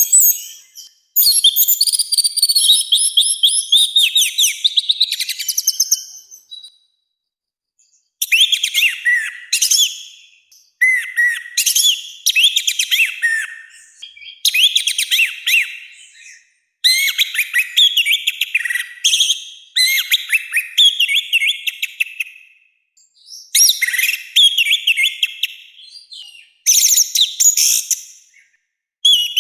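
Orange-headed thrush (anis merah) singing a loud, rough song. Eight or so phrases of rapid whistled and scratchy notes, each a few seconds long, are separated by short pauses.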